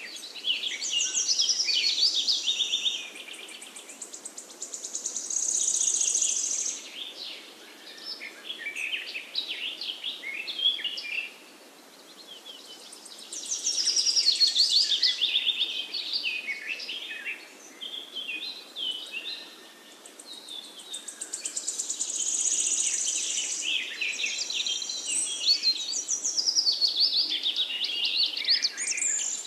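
Several songbirds singing at once: a chorus of overlapping chirps, warbles and high trills that swells and fades every few seconds.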